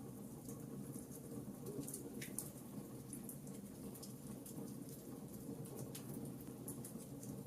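Fireplace fire crackling faintly: frequent small pops and snaps over a low, steady rumble of flame, with a couple of slightly sharper pops.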